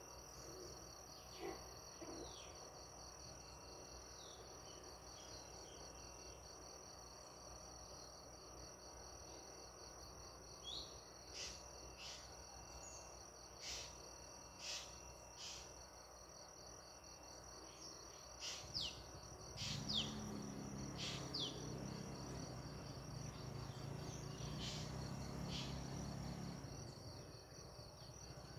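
Steady, high, pulsing trill of insects, typical of a cricket chorus, with short, sharp falling bird chirps scattered through, most of them in the middle. A low hum comes in about two-thirds of the way through.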